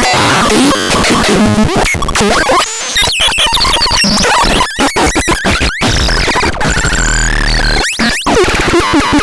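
Loud, harsh electronic noise music: a dense wall of distorted synthesizer noise that breaks into stuttering, chopped bursts with squealing pitch sweeps, then settles into a steadier high tone over a low drone.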